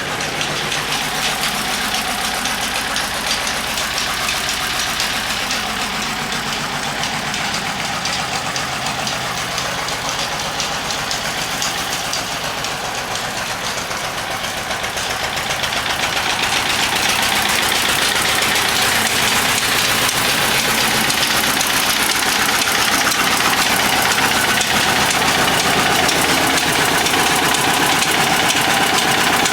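Eicher diesel engine running steadily, belt-driving a monoblock water pump through a small pulley. It grows louder about halfway through and holds there.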